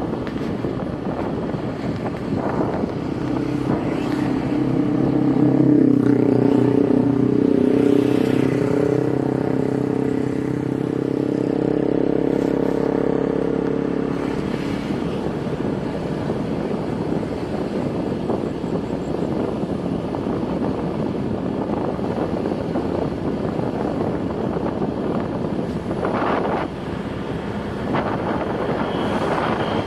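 A vehicle travelling on a road, with steady engine and road noise. From about four seconds in, a louder engine hum builds, peaks, and fades out by about fourteen seconds.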